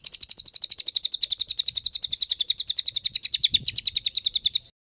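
A songbird's rapid-fire trill: short, sharp, high-pitched notes repeated about a dozen times a second without a break. It cuts off abruptly near the end. This is the 'tembakan' (machine-gun) type of call used as masteran song for training caged birds.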